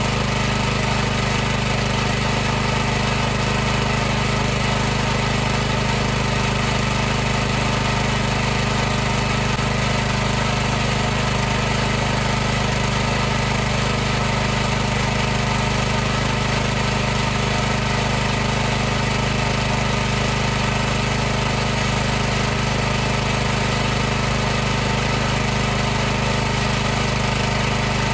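High-pressure washer pump running steadily: a constant low hum with an even hiss over it.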